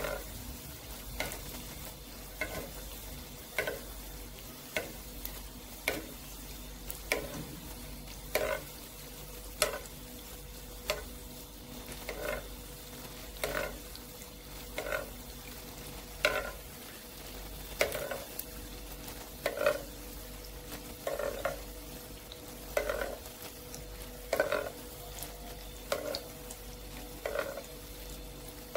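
Hot oil sizzling steadily around a yeast-dough ball shallow-frying in a pan. A short surge of louder sizzling comes about every second and a half as a ladle scoops oil and pours it over the top of the dough to baste it.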